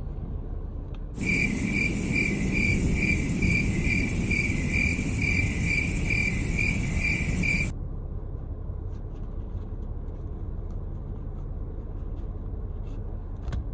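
A high, insect-like chirp pulsing about three times a second over a hiss, starting about a second in and cutting off abruptly some six seconds later, leaving a low steady rumble.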